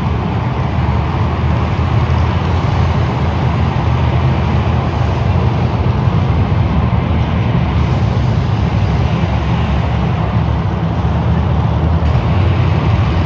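Monster trucks' engines running steadily as the trucks move out, a loud, deep, even engine note with no sharp revs.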